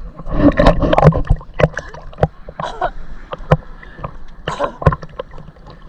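Paddles splashing and knocking against a small paddled boat on the water, a sharp knock or splash every half second or so, with voices calling out over it.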